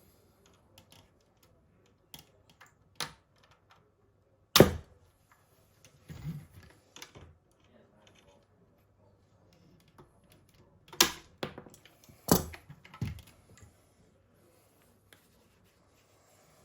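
Irregular clicks and knocks of small hard parts and tools being handled while an RC model half-track is worked on, with three sharper, louder knocks, one about four and a half seconds in and two around eleven to twelve seconds in.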